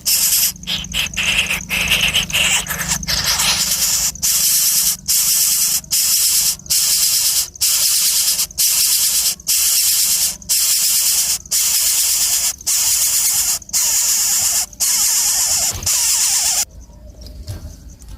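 A loud, harsh insect buzz, like a cicada's, broken by short gaps about once a second, which cuts off abruptly near the end.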